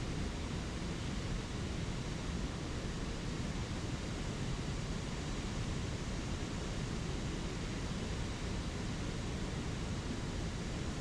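Flowing spring creek: a steady, even rush of water with no breaks.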